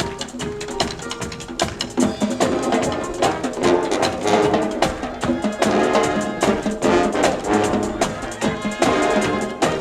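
Band music with pitched instruments over drums and other percussion keeping a steady beat.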